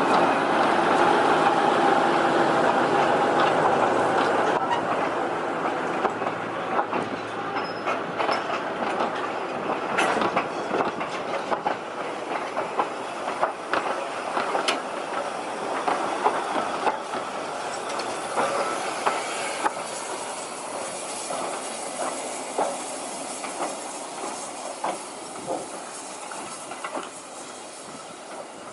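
Heritage train running on the tramway's track, wheels clicking over the rail joints, with a brief steady tone of wheel squeal near the start. Loud at first, it fades steadily as the train moves away.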